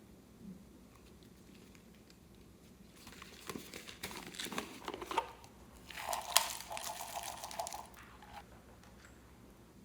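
Slime being squeezed and worked by hand, making wet crackling and popping sounds. It starts after a quiet first few seconds, grows louder with a sharp pop about six seconds in, then fades.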